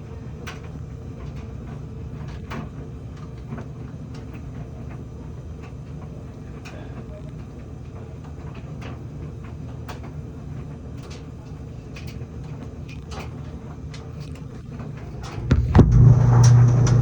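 LG clothes dryer running with a steady low hum and scattered light clicks. About fifteen seconds in, a much louder low-pitched buzz starts and holds: the buzz noise the dryer is making.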